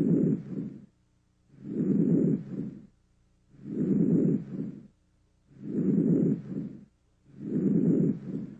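Normal vesicular breath sounds heard over the chest: a soft, low-pitched rushing with each breath, about five breaths one every two seconds, each louder through inspiration and fading early in expiration, with short silent gaps between.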